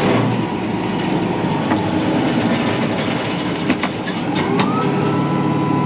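Diesel tractor running with a high whine from its hydraulic tree saw. The whine drops slightly in pitch at the start and climbs back up about four and a half seconds in. A few sharp cracks come just before the rise.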